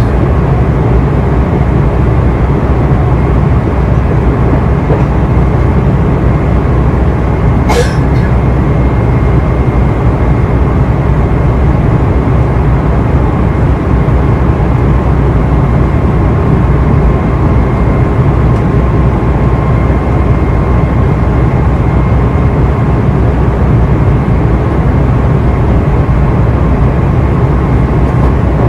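Steady rumble of a Meitetsu limited express train running along the line, heard inside the passenger cabin, with a faint steady whine over it. A single brief click comes about eight seconds in.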